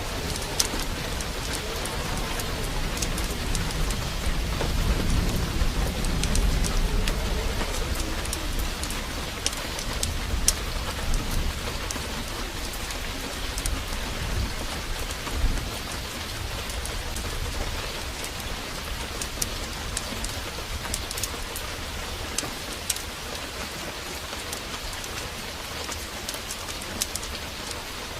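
Heavy rain pouring steadily, with a low rumble of thunder swelling about five seconds in and scattered sharp crackles and ticks throughout.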